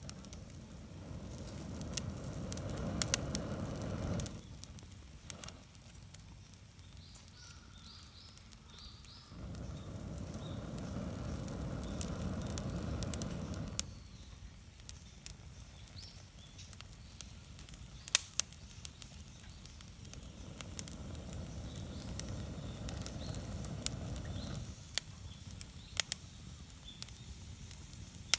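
Wood campfire crackling, with sharp pops and snaps scattered throughout. Three times a low rushing sound rises for about four seconds and cuts off abruptly.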